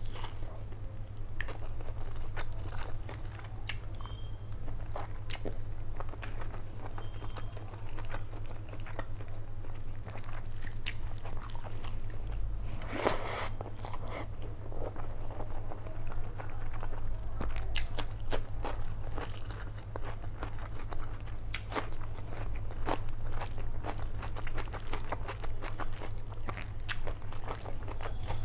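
Close-miked chewing and mouth sounds of a person eating mutton biryani by hand: a steady run of small clicks and bites, with a louder bite about halfway through, over a steady low hum.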